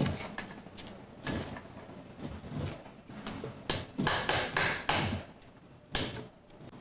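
Hand tools scraping and knocking on a wooden window sash as old glazing putty is worked loose: a run of irregular strokes, loudest in a cluster about four to five seconds in.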